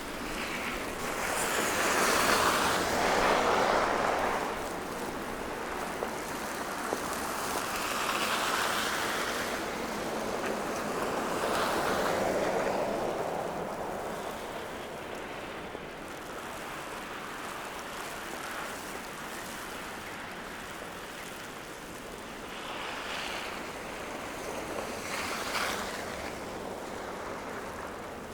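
Vehicles passing on a wet city street: about four swells of tyre hiss that rise and fade, the loudest a few seconds in, over a steady hiss of city background.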